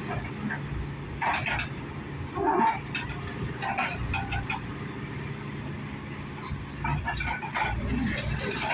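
Demolition machinery engine running steadily, with irregular cracks and crunches of a house's timber and debris breaking, one louder crunch about two and a half seconds in.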